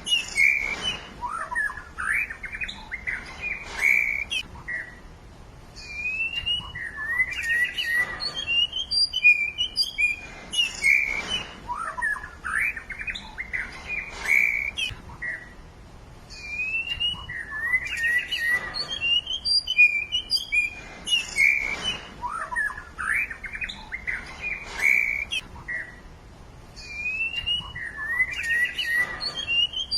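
Birds chirping and singing in quick, varied phrases of high chirps and short rising whistles, broken by brief lulls about every ten seconds; the same song sequence seems to recur each time.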